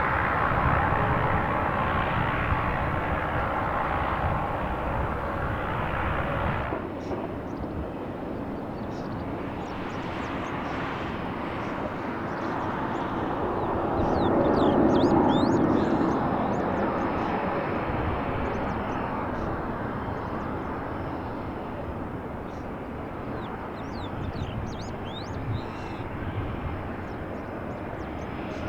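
Airplane engine noise that swells to its loudest about halfway through and then fades, with an abrupt change in the sound about a quarter of the way in. Faint high chirps come and go above it.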